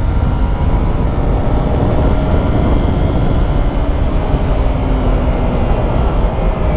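Yamaha YZF-R3's parallel-twin engine running steadily at cruising pace on the move, over a heavy, even rush of wind noise.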